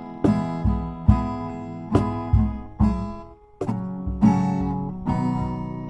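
Acoustic guitar strummed in an instrumental passage, chords struck about twice a second, with a short break about three and a half seconds in.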